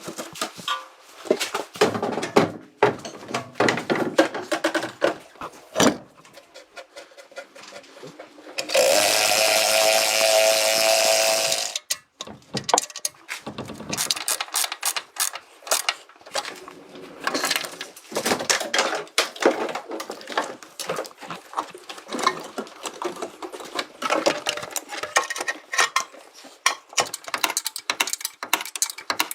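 Workshop tool sounds: a quick, irregular run of clicks, taps and knocks, broken about a third of the way in by a loud, steady power-tool burst lasting about three seconds.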